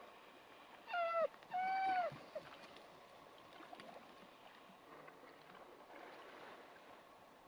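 A dog whining twice in quick succession, two short high-pitched whines about a second in, each dropping in pitch at the end, over a faint steady background.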